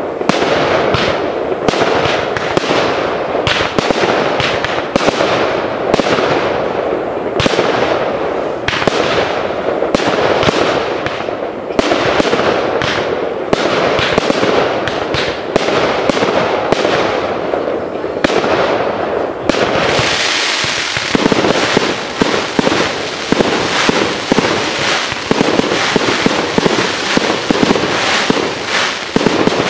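Aerial fireworks display: a fast run of launches and bursting shells, with many irregular bangs. About twenty seconds in it thickens into a denser, continuous crackling barrage.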